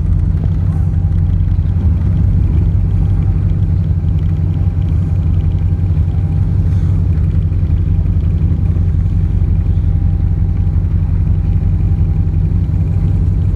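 A vehicle engine idling: a steady low rumble that stays even throughout.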